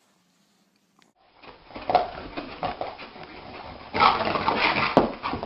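A dog making short, uneven noisy sounds that begin about a second and a half in after a silent start.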